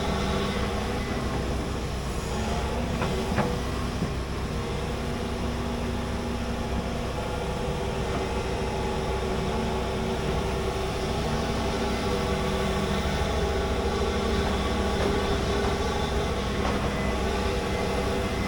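Large hydraulic excavator's diesel engine running steadily under work, with a single sharp knock about three and a half seconds in.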